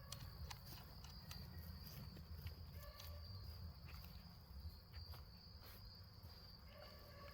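Faint, steady, high insect trill, like crickets, with scattered light clicks and taps over a low rumble.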